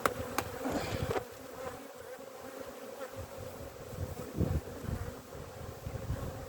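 Honeybee colony buzzing steadily from an opened hive during an inspection. A couple of sharp clicks come in the first half-second.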